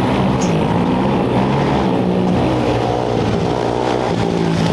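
Off-road race motorcycle engine revving hard, its pitch dipping and climbing again as it accelerates.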